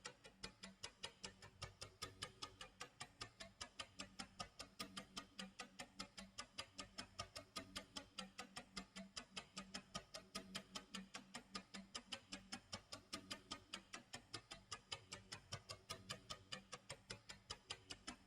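Clock tick-tock sound effect: quiet, rapid, evenly spaced ticks with a faint low hum beneath.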